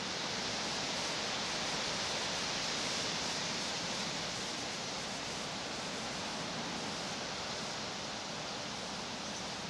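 Tree leaves rustling steadily in the wind, a dense hiss that swells over the first couple of seconds and then eases slightly.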